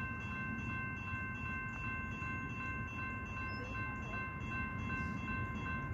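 Train on the line: a low, steady rumble with a set of steady high tones held over it that cut off near the end, and a faint ticking about twice a second.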